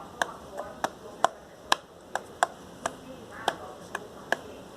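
A series of sharp, short clicks or taps, roughly two a second at uneven spacing.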